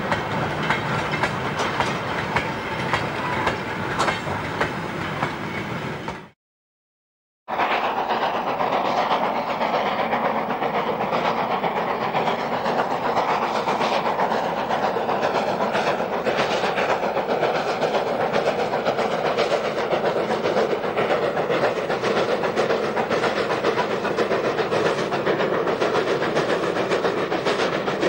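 A short goods train with a brake van rolls by, its wheels clicking and clanking over the rail joints. About six seconds in the sound cuts to a second of silence, then gives way to a steam locomotive hauling coaches, heard as a steady rushing with faint regular exhaust beats.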